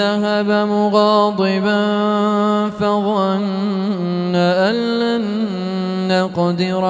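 A solo male voice chanting the Quran in melodic tajweed style, with no instruments. One long, ornamented vocal line that glides and wavers in pitch, broken by a couple of short breaths.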